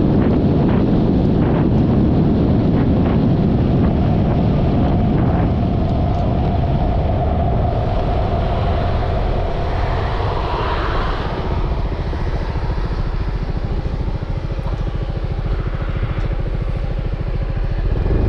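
Yamaha XMAX 300 scooter underway: its single-cylinder engine and road noise under heavy wind buffeting on the mic, with the wind easing after about four seconds.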